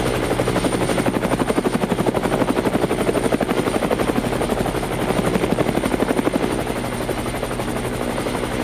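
Helicopter flying: a fast, steady beat of rotor blades over a constant engine drone, with a thin high turbine whine above.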